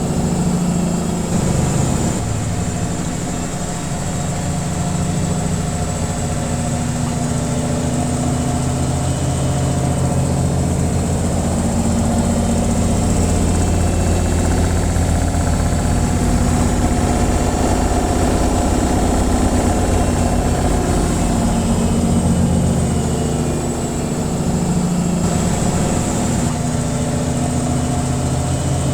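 Washing machine on its spin cycle: a steady low motor hum with drum vibration, its pitch shifting slightly now and then.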